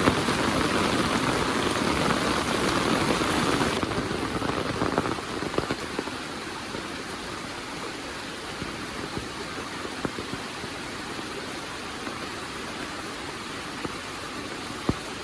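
Heavy monsoon rain, a dense steady hiss that suddenly thins and drops in level about four seconds in, leaving a quieter steady patter with scattered single drips.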